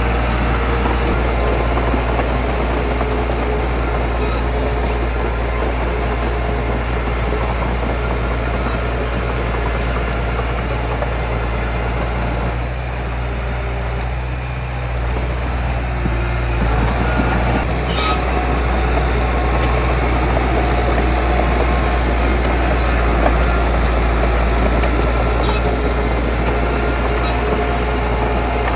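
Heavy diesel earthmoving engine running steadily. It eases off for a few seconds a little before halfway, then picks up again, with a few sharp clicks in the second half.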